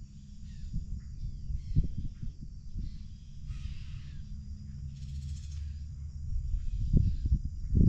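Marsh ambience: a steady low rumble with faint, harsh, crow-like bird calls about four and five seconds in. The rumble grows louder near the end.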